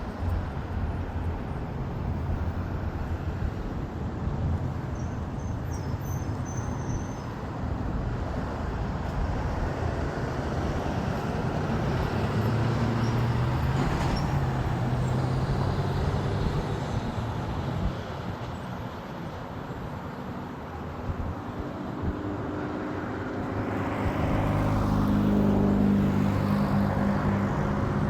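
Steady road-traffic rumble, with the engine hum of passing vehicles swelling about halfway through and again near the end.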